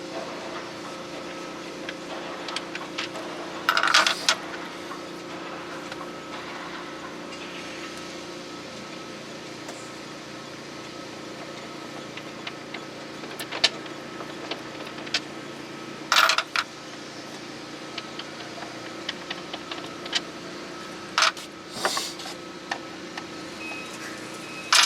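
A steady mechanical hum, like a motor running, under scattered small clicks and a few short, loud clattering knocks.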